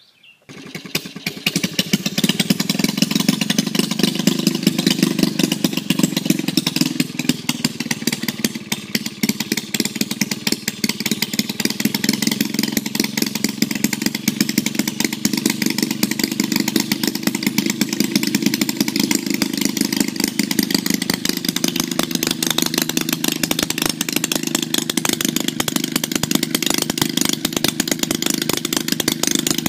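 Twin-cylinder Maytag gasoline washing-machine engine starting about half a second in, then running steadily with a rapid, even firing beat.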